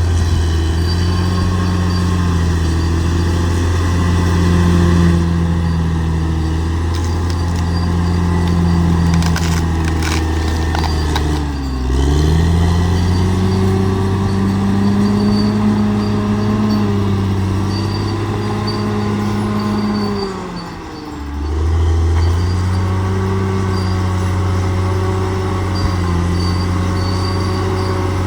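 Bulldozer's diesel engine running steadily under load. Its revs dip sharply and recover twice, about twelve seconds in and again about twenty-one seconds in.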